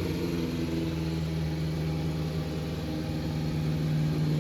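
Kawasaki Z400J's 400 cc inline-four engine idling steadily through an aftermarket four-into-one exhaust, settled just after a blip of the throttle.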